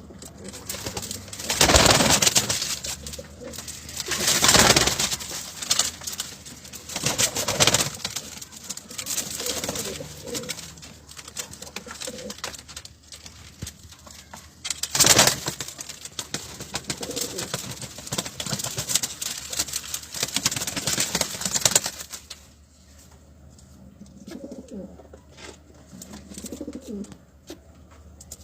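Homing pigeons cooing, with several loud noisy bursts in the first two-thirds and two low coos standing out clearly near the end.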